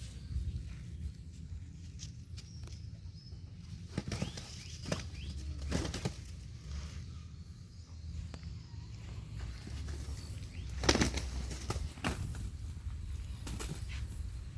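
Two gamecocks fighting: irregular bursts of wing flapping and strikes, the loudest about eleven seconds in, over a low steady rumble.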